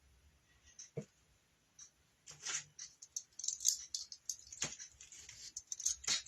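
Hands handling small craft pieces: a light knock about a second in, another past the middle, and irregular clicking and rustling that gets busier in the second half.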